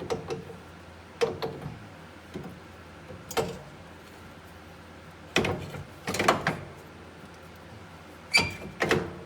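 Irregular metal clunks and knocks as the differential and rear drive shaft are shifted to mesh the splines, with a cluster of knocks past the middle and one near the end that rings briefly.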